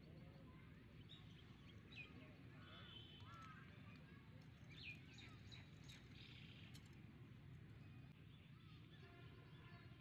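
Faint outdoor ambience: scattered short bird chirps and calls over a low, steady background rumble, with a few faint clicks around the middle.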